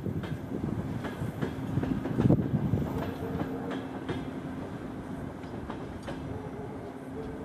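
A long train of passenger coaches rolling past, wheels clacking over the rail joints at irregular intervals, over a continuous low rumble with a faint steady tone beneath it.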